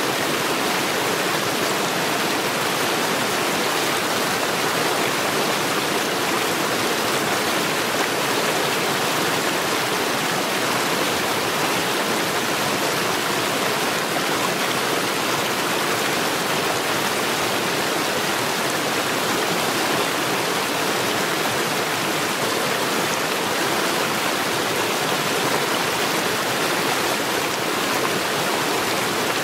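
Mountain stream rushing steadily over stones, a constant dense rush of water with no breaks.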